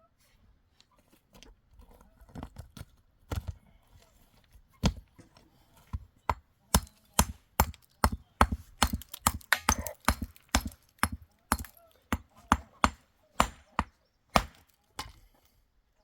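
A series of sharp chopping strikes. They come sparse and uneven at first, then settle into a steady run of about two a second.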